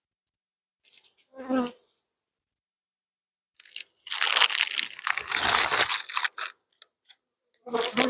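Paper wrapping being torn and crinkled, a loud noisy stretch of about two and a half seconds in the middle, as a pollen patty is unwrapped. Short scrapes and a brief pitched sound come before it, and another pitched sound near the end.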